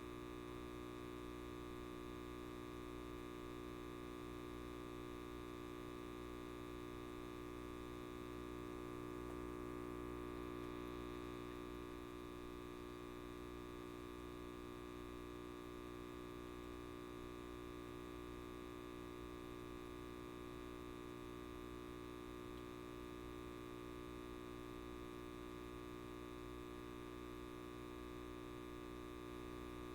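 Light bulb buzzing with a steady electrical hum of many even tones, swelling slightly for a few seconds partway through.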